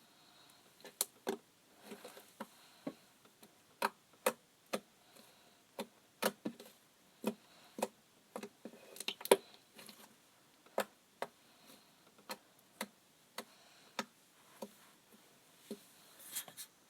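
Slime being squeezed and poked, giving a string of sharp, irregular clicks and pops, about one or two a second.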